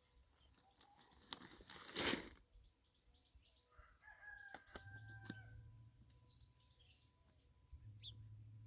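A sharp knock about two seconds in, then a held, pitched bird call about a second long, and faint chirps near the end.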